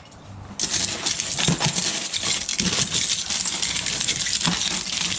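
A pile of small metal-detecting finds (coins, pull tabs and scrap metal) clattering and jingling together in a continuous rattle, starting just under a second in.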